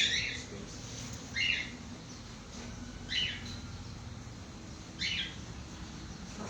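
A bird chirping in the background: four short, high chirps spaced about a second and a half to two seconds apart.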